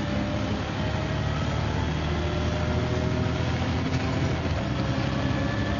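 MCW Metrobus double-decker bus engine running steadily, with a thin whine that slowly rises in pitch, drops back about halfway through, and rises again.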